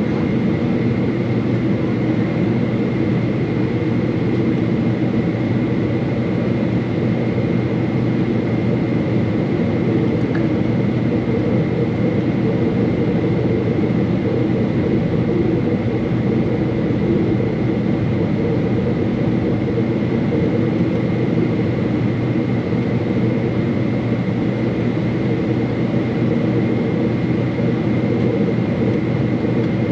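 Steady cabin noise inside a Boeing 777-300 airliner: a constant rush of engine and airflow noise with a thin, steady high whine running through it.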